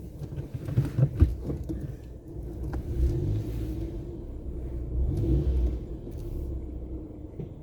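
A car moving slowly, heard from inside: a low rumble of engine and tyres that swells and eases, with a couple of knocks about a second in.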